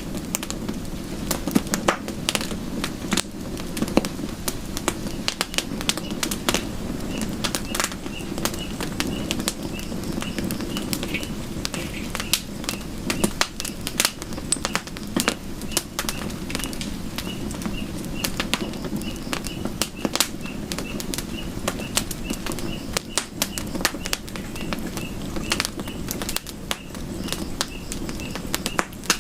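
Campfire burning, with frequent sharp crackles and pops over a steady low rush of flames. From about a third of the way in, a faint high chirp repeats about twice a second in the background.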